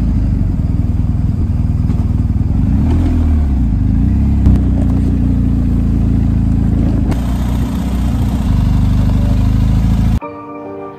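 BMW R 1250 GS Adventure's boxer-twin engine running under way, a dense low rumble whose pitch rises and falls briefly about three seconds in. It cuts off abruptly near the end as music takes over.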